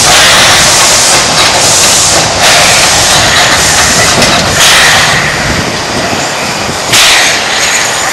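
Small steam locomotive working: a steady loud hiss of steam with a sharp exhaust chuff about every two seconds, easing slightly in the second half.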